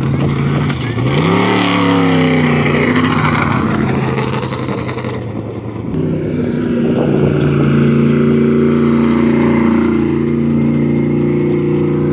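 Trophy truck engine revving. Its pitch climbs about a second in, under a loud rush of noise for several seconds, then it holds at a steady pitch.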